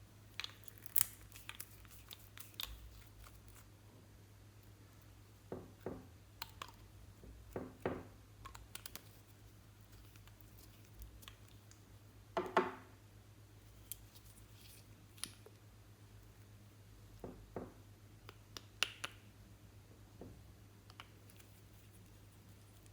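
Scattered small clicks, taps and scrapes of objects being handled at a tabletop, spaced irregularly with a few sharper knocks, over a steady low electrical hum.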